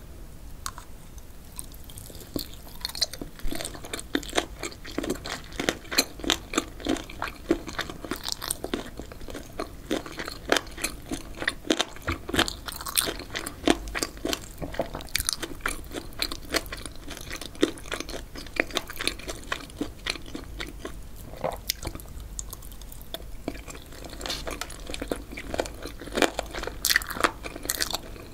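Close-miked chewing of spicy boneless chicken feet: a dense, irregular run of crunchy clicks as the cartilage is bitten through. The crunching starts about two seconds in.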